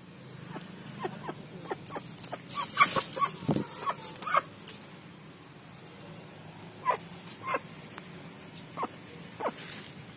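Aseel chickens making short, scattered clucks, thickest between about two and five seconds in.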